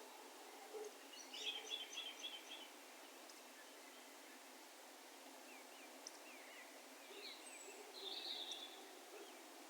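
Faint, distant bird calls over a steady hiss of open-country ambience. A quick run of five or six short high notes comes about a second in, and a second bout of short downward-sliding notes comes near the end.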